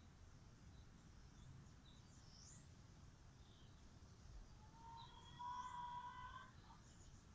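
Faint outdoor background noise with a few short, distant bird chirps. About five seconds in, a steady held tone sounds for about a second and a half.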